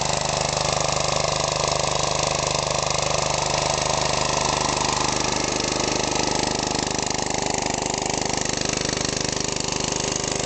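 Pressure washer's small engine running steadily, with a low regular pulsing under an even hiss.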